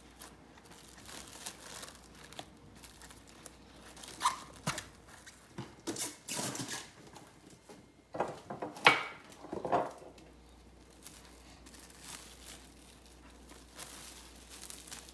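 Plastic cling wrap being pulled, torn and crinkled in several short bursts, the loudest a little past the middle.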